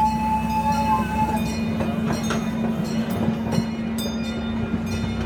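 Gas-powered replica steam train running on its track, a steady low engine drone with scattered knocks from the wheels and cars. A thin steady high tone sounds at first and stops about a second and a half in.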